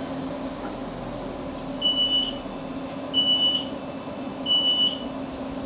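Three short, high beeps about a second and a half apart from a Class 458 train's door warning, sounding as the train stops at a station, over the steady hum of the train's onboard equipment.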